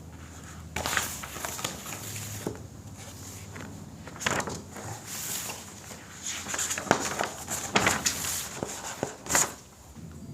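Oil pastel rubbed across paper in irregular scratchy strokes, coming in clusters and stopping just before the end.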